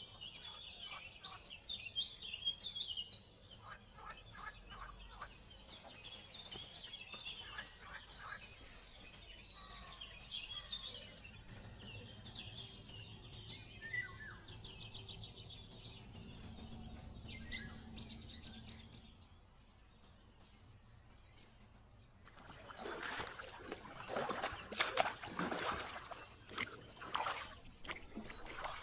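Wild birds chirping and singing, many short high calls. About two-thirds of the way through, the birdsong gives way to a louder stretch of irregular scraping and knocking noises.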